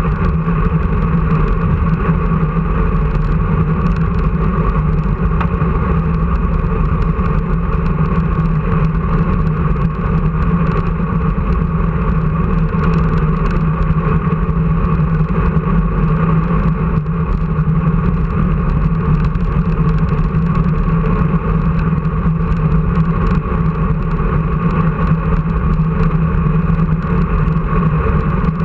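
An engine running steadily at a constant speed, its pitch held even throughout.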